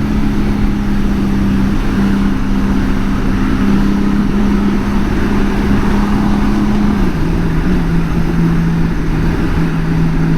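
2018 Honda Goldwing's flat-six engine running at a steady road speed under wind and road noise, its pitch dropping a step about seven seconds in.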